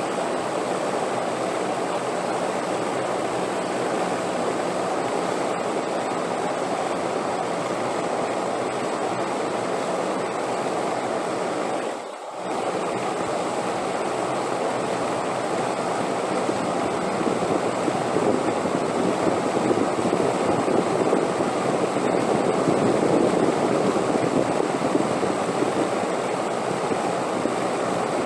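Steady rushing wind with no gusts standing out. It drops away for a moment about halfway through, then swells gradually louder in the second half.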